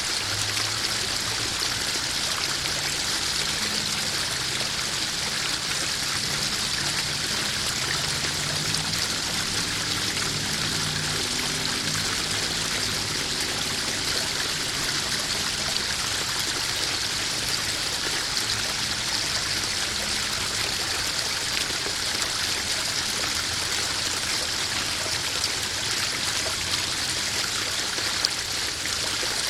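Small garden waterfall splashing and trickling steadily into a koi pond.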